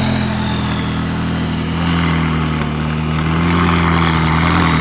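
McLaren supercar's engine idling steadily.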